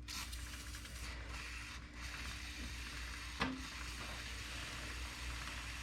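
Aerosol chain lube spraying through its straw nozzle onto a motorcycle chain: a steady hiss that breaks off briefly twice in the first couple of seconds, with a single sharp click about three and a half seconds in.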